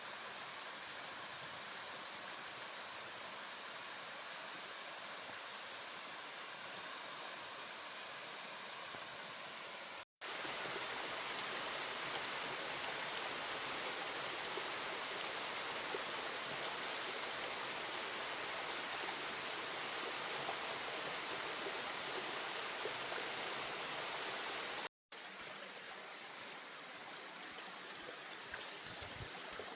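Steady rushing water of a waterfall, in three takes cut off suddenly about 10 and 25 seconds in; the middle take is louder.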